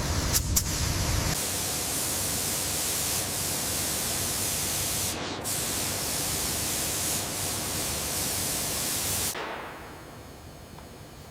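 A steady, loud hiss, like pressurised spray or an air jet, that stops about nine seconds in. A low rumble with a few sharp clicks sits under it for the first second or so.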